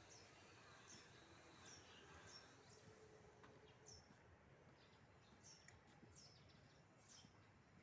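Near silence with faint background noise and a small bird chirping: short, high chirps that slide downward, about one a second.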